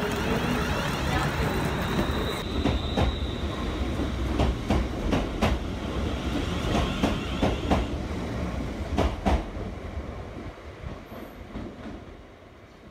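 Passenger train running past a station platform, its wheels clacking over rail joints in a run of sharp knocks. A thin high whine comes in briefly about three seconds in, and the sound fades away near the end as the train leaves.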